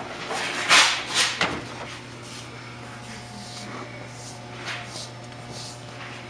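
Sublimation transfer press at work: two sharp clatters about a second in, then smaller knocks and rustles of handling, over a steady low machine hum.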